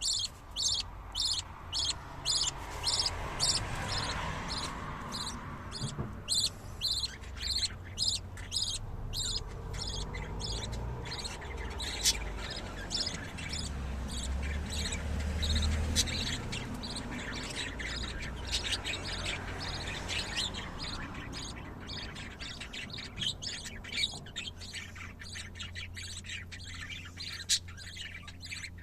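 Budgerigars chirping: a long run of short, evenly repeated high chirps, about three a second, that turns into denser, less regular chirping after about ten seconds.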